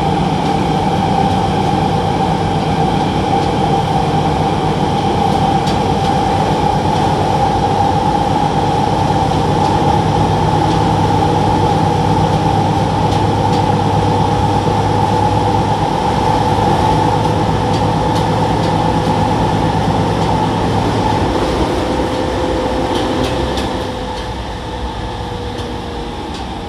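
Sotetsu 10000 series electric train, refitted with a Mitsubishi IGBT VVVF inverter, running at speed, heard from inside the passenger car. A steady inverter and traction-motor hum sits over the rumble of wheels on rail, and the sound drops noticeably in level about three-quarters of the way through.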